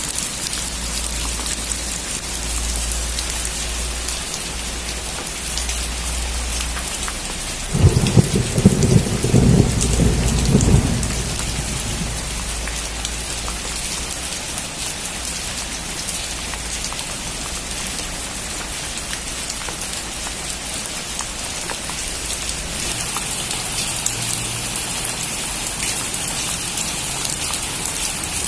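Steady heavy rain falling, with a loud rumble of thunder about eight seconds in that lasts roughly three seconds before fading back into the rain.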